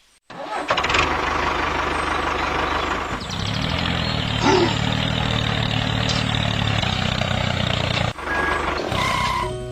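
Tractor engine running steadily with a low hum; it stops about eight seconds in, followed by a short different mechanical sound.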